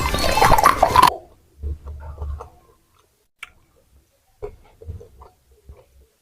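Music with a voice cuts off suddenly about a second in. After that come quiet, irregular mouth sounds of someone chewing fried chicken sempol, with a sharp click about three seconds in.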